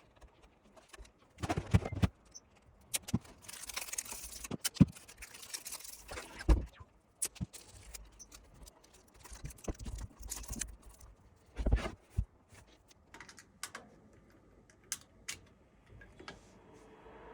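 Handling noise: scattered clicks and knocks with a few low thumps, and a stretch of rustling or scraping several seconds in.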